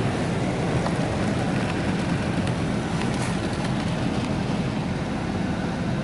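Water spray from a touchless automatic car wash hitting the car's body and glass, heard from inside the cabin as a steady rushing noise.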